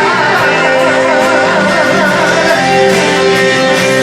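Live band playing an instrumental break in a romantic pop ballad: a wavering, trilling melody line over steady held chords, with no singing.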